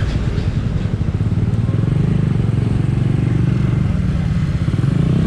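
Skygo Earl 150's single-cylinder CG150 engine, fitted with a 28mm carburetor, running under way through an open exhaust pipe. It gets louder about two seconds in as the bike pulls on.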